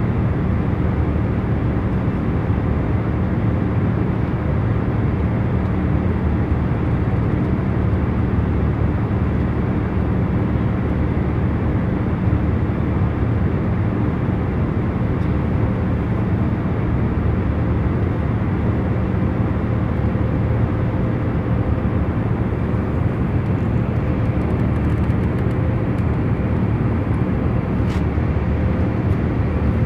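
Jet airliner cabin in cruise flight: a steady, unchanging low rumble of engine and airflow noise, with faint steady hum tones running through it.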